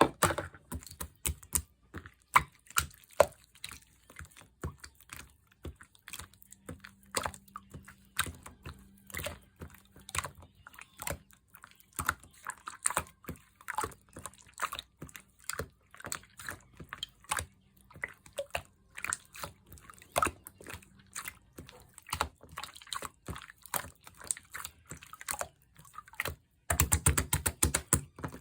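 Clear slime being squished and pressed by hand, making many irregular wet clicks and pops. Near the end there is a fast, louder run of crackling pops.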